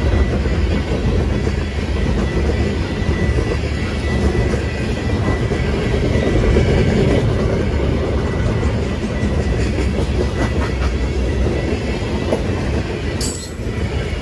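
A train passing close by, its wheels and cars rolling on the rails in a steady loud rumble, with a faint thin ringing tone held over it. The sound briefly dips near the end.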